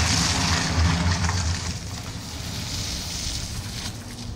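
A small hatchback's engine running under load as it drives through a flooded, muddy track, with a steady hiss above it. It is loudest for the first couple of seconds, then eases off.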